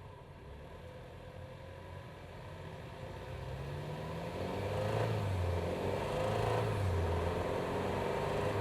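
BMW B48 2.0-litre turbocharged four-cylinder engine heard from inside the engine bay, picking up revs and growing louder from about three seconds in, then running hard with the revs wavering.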